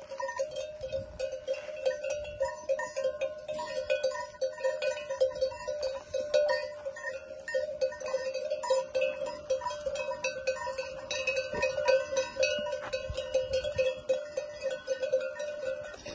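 Bells on a flock of grazing sheep clanking and jangling continuously, with many overlapping clinks over a steady ringing tone.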